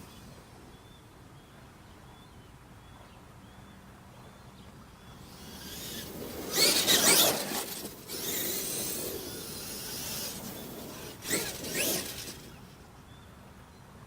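Traxxas E-Revo electric RC truck running over rough ground, mostly a noisy rush of tyres and chassis that builds about five seconds in and is loudest a couple of seconds later. Two short loud bursts come near the end.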